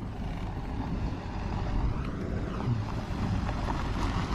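Dirt bike engines idling, with wind noise on the microphone.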